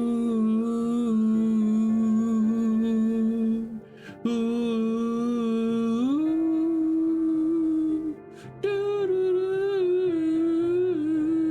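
A voice humming and singing long, held 'ooh' notes. It breaks off briefly about four and eight seconds in, and slides up to a higher note about six seconds in.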